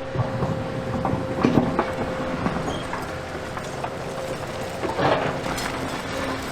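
Volvo EC250E excavator engine running steadily while it loads demolition rubble onto a truck. Rubble clatters and scrapes in several bursts, the biggest crash coming about five seconds in.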